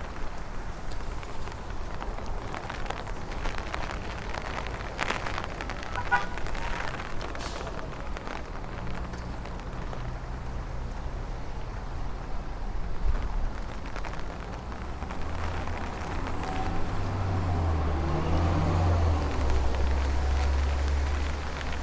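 Street ambience of traffic passing on wet pavement under light rain. In the last several seconds, gusty wind starts to rumble on the microphone as a thunderstorm's gust front arrives.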